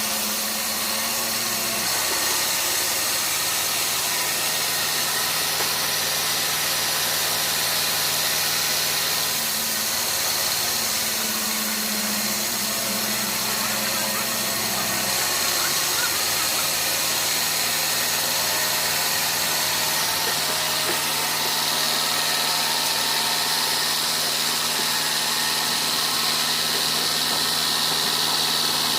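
Sawmill machinery running steadily: an engine-like hum under a constant hiss. The hum shifts pitch a few times, and the hiss grows brighter near the end.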